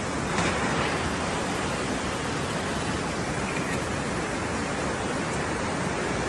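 Steady, loud rush of water, like floodwater or a downpour, a little louder for about a second, half a second in.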